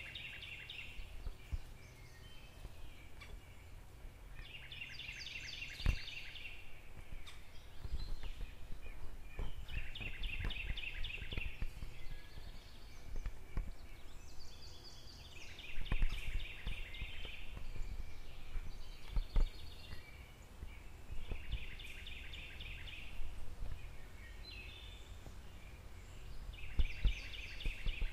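A songbird singing a short phrase of rapid repeated notes, about every five to six seconds, over a low outdoor rumble.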